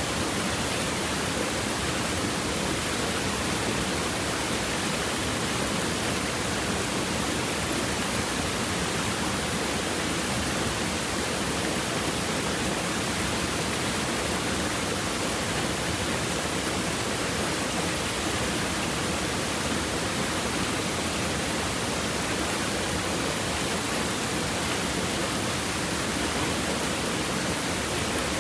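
Stream water babbling steadily over rocks, an even unbroken rush.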